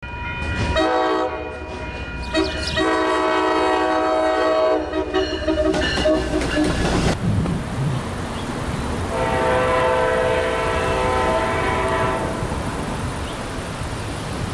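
A train horn sounds three times: a short blast, then two long blasts of about three seconds each with a pause between them. A low rumble and wheel clatter from the train run underneath.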